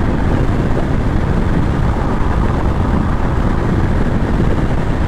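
Steady rush of wind buffeting the microphone, with tyre noise, from an electric bike at full speed, about 53 to 54 mph.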